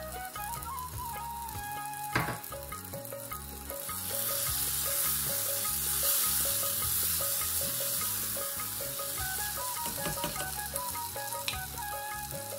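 Minced chicken frying in a tiny pan over a small gas flame. The sizzle grows louder about four seconds in as the mince is stirred with a small spoon. There is a single sharp knock about two seconds in.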